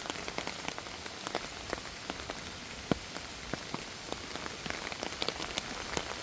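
Steady rain hiss with many individual raindrops landing close by as sharp, irregular ticks, one louder tick about halfway through.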